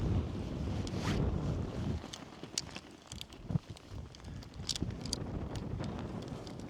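Wind buffeting the microphone in gusts, easing after about two seconds, with scattered light clicks and rustles of handling.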